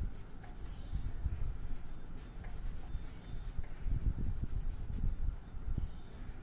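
A colouring tool rubbing back and forth across paper in uneven strokes, heavier about four seconds in.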